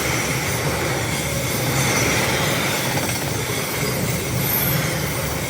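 HXD1C electric locomotive and its train running along the track: a steady, loud rumble of wheels on rails with faint high tones above it.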